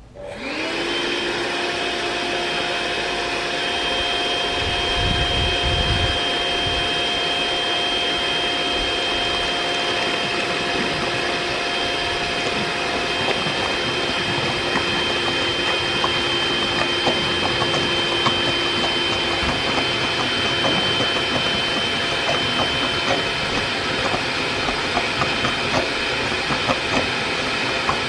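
Makita CL181FD 18V cordless vacuum cleaner switching on just after the start, its motor quickly spinning up to a steady high whine and running on. A scattering of crackles and clicks runs through it and becomes more frequent near the end, as it sucks water through stacked cyclone attachments.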